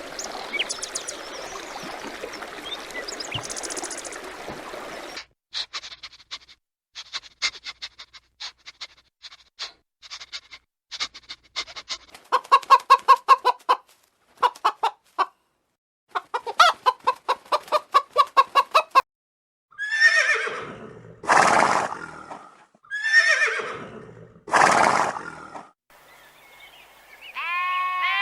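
Barnyard animal calls: an even hiss for the first five seconds, then chickens clucking in quick runs of short pulses, then a horse whinnying four times, each call long, loud and falling in pitch.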